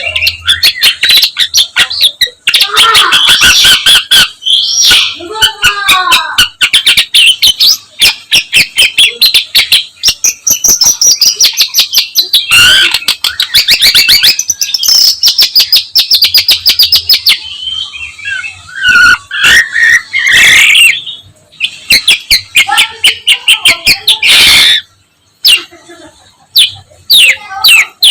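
Long-tailed shrike (pentet/cendet) singing loudly in a fast, chattering stream of varied notes, full of phrases mimicked from other birds, with a short pause near the end.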